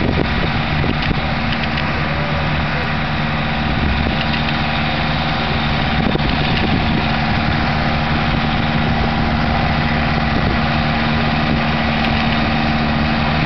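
McCormick International B-250 tractor's four-cylinder diesel engine running steadily at an even pitch.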